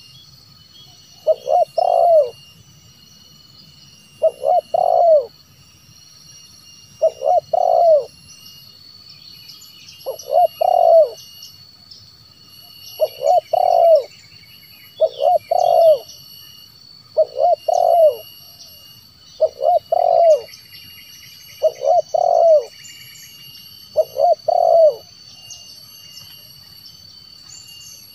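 Spotted dove (tekukur) cooing: a short phrase of a few notes, repeated about every two to three seconds, about ten times. A steady high insect drone and faint small-bird chirps go on behind it.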